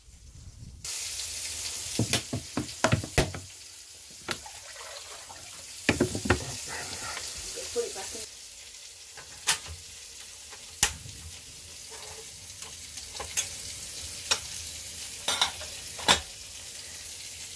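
Pork frying in a hot pan, a steady sizzle peppered with sharp spitting pops of fat. The sizzle cuts in abruptly about a second in.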